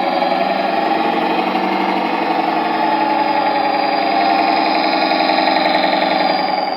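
Simulated truck diesel engine sound from an RC Scania S770's ESP32 sound module, played through the model's small speaker and running steadily. It gets a little louder after the middle and eases off slightly near the end.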